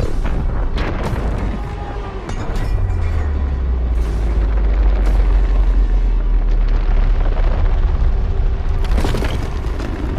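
Film sound effects: sharp impacts and crashes, then a deep booming rumble that swells about two and a half seconds in, holds for several seconds and eases, under music.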